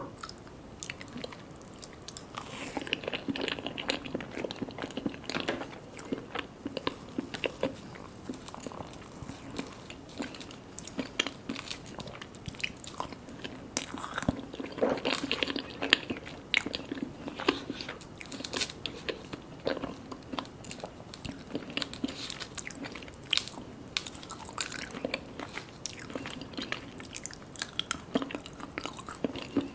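Close-up eating sounds of mini mousse cakes being bitten and chewed, with a steady stream of small mouth clicks and smacks.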